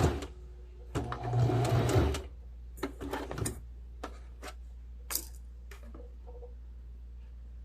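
Electric sewing machine stitching a seam in one short run of about a second, starting about a second in. A few scattered clicks and taps follow, then it goes quiet.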